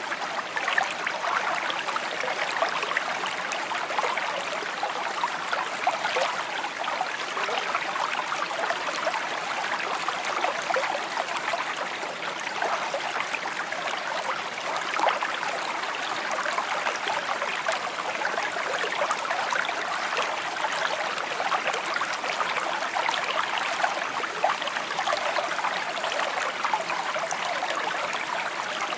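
A small shallow stream babbling and trickling steadily over stones, a continuous burbling of water.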